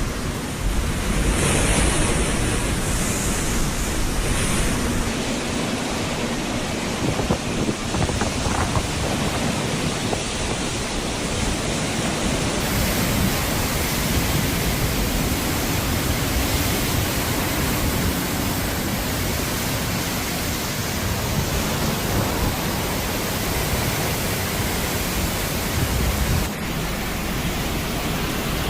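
Hurricane wind and rain: a loud, dense, steady rush of noise, changing abruptly about twelve seconds in and again near the end.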